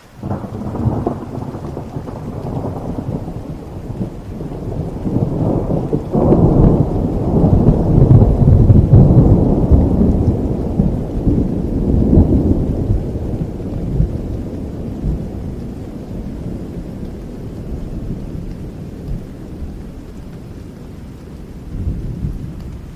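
A long roll of thunder over steady rain: a deep rumble breaks in suddenly, swells to its loudest in the middle and slowly dies away.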